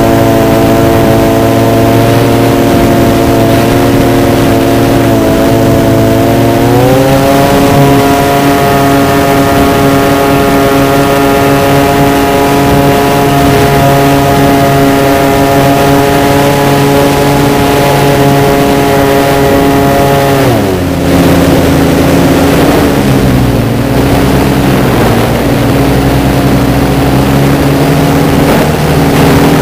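RC model Cessna's motor and propeller, recorded by a camera on board in flight: a steady drone that rises in pitch about seven seconds in as the throttle opens. It holds there, then drops sharply about twenty seconds in and runs on at a lower throttle.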